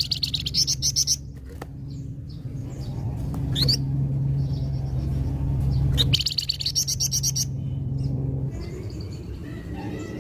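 A flamboyan songbird singing in full song. It gives fast, high trills at the start and again about six seconds in, with single rising whistled notes between them. A steady low hum runs beneath and fades out near the end.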